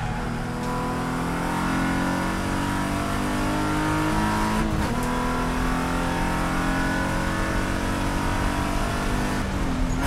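Spec E46 BMW race car's straight-six engine heard from inside the cabin under hard acceleration, its pitch climbing steadily. About halfway through the pitch drops sharply on an upshift and then climbs again. Near the end the pitch dips and rises once more.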